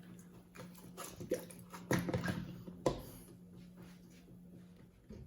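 Consul CWC08 8 kg washing machine running a wash with a single-bed bedspread: a steady motor hum with irregular sloshing and soft thumps of the wet load, a few louder ones between one and three seconds in.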